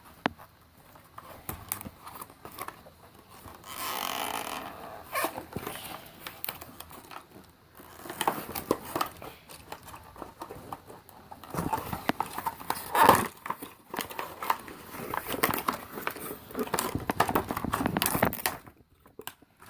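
Plastic toy packaging and parts being handled: irregular rustling and crinkling with small plastic clicks, and one sharper snap near the middle.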